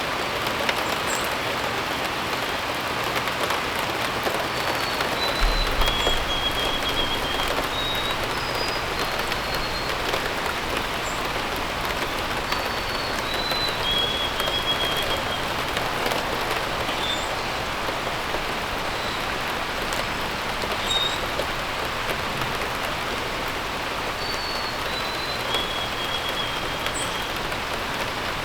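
Steady rain falling, with a bird singing a short phrase of a few high whistled notes that step down in pitch, repeated several times. A brief low rumble about five and a half seconds in.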